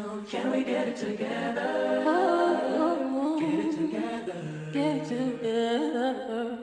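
Music of voices singing together with little or no instrumental backing, in an a cappella, chant-like style with gliding, overlapping vocal lines.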